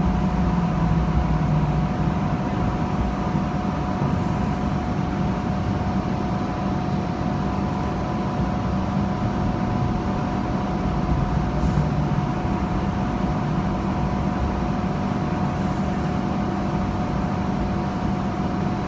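Hong Kong Light Rail first-generation two-car train running along the track, heard from inside the car: a steady rumble from the wheels and running gear, with a constant high hum from the car's equipment over it.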